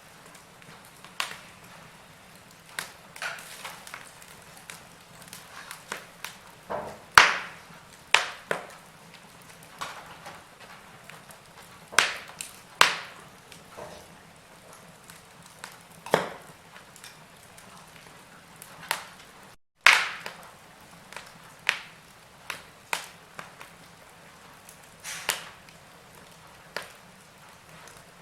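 Wood fire crackling: irregular sharp pops and snaps of burning wood over a low hiss, one every second or two, the loudest about a quarter and two-thirds of the way through. The sound cuts out for an instant just before that second loud pop.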